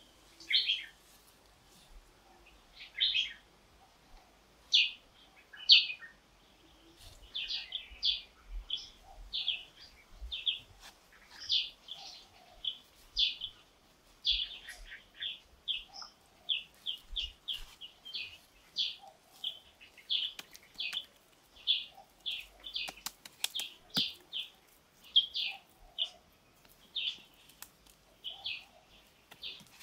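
Small birds chirping, short high calls repeated about twice a second.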